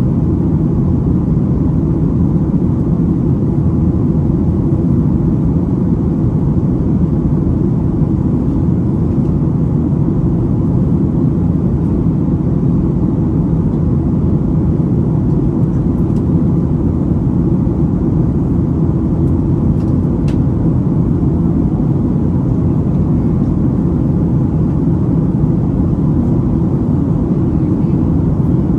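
Steady low rumble inside the passenger cabin of a Boeing 737-800 in its climb: the CFM56-7B jet engines and rushing air, unchanging throughout.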